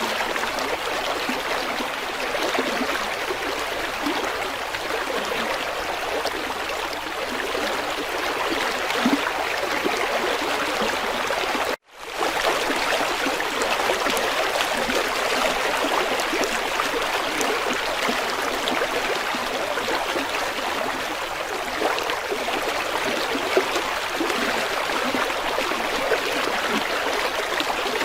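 River water flowing steadily, with a brief dropout to near silence about twelve seconds in.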